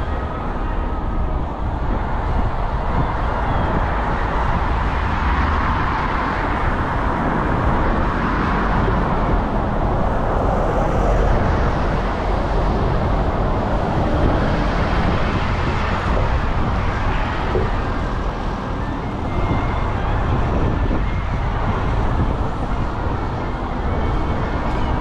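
Road traffic passing close by, cars swelling and fading a few times, over a steady low wind rumble on the microphone of a moving bike's action camera.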